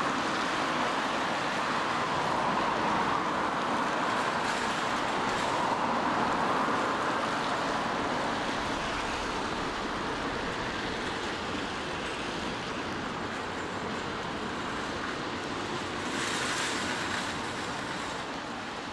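Steady rushing noise of a rainy city street: rain and traffic hissing on wet roads, with a brief louder, hissier swell near the end, like a vehicle passing.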